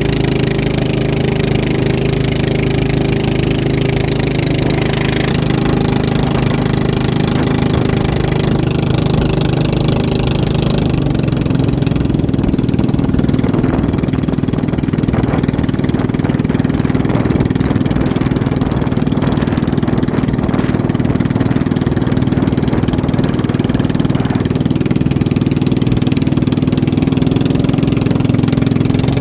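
Motorboat engine running steadily, its note changing about 11 seconds in.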